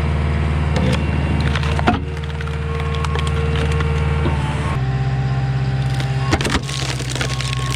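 Eastonmade SS524 skid steer splitter forcing through big rounds of wood: wood cracking and splintering with sharp snaps about two seconds in and again past six seconds, over the skid steer's engine running steadily. The engine note shifts just under five seconds in.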